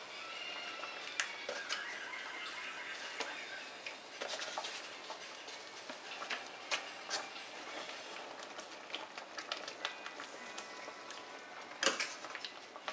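Roast beef gravy bubbling in a pan, with scattered small pops and clicks and a sharper knock near the end.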